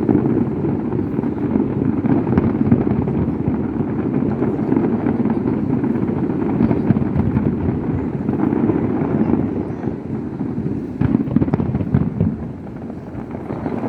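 Fireworks display: a dense, continuous crackle and rumble of bursting shells, with a cluster of sharper bangs about eleven seconds in before it eases off slightly.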